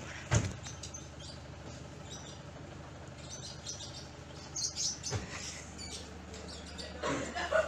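Small birds chirping intermittently in short high calls. There is a dull knock about half a second in and another near five seconds, over a steady low hum.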